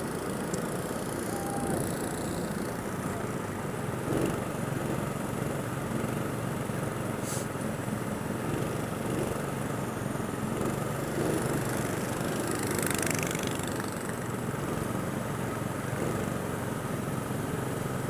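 Small go-kart engine running steadily under way.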